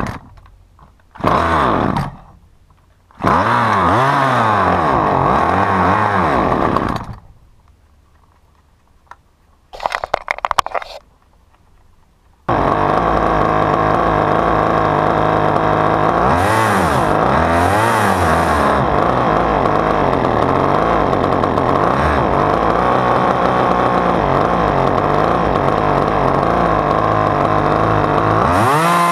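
Husqvarna T435 top-handle chainsaw's small two-stroke engine firing and dying twice, with a short ragged sputter between. About twelve seconds in, it catches and runs steadily, revving up briefly twice.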